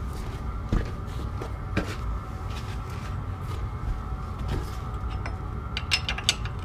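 Scattered sharp knocks and clinks, like handled metal parts or tools, a few seconds apart over a steady low hum, with a quick cluster of clinks near the end.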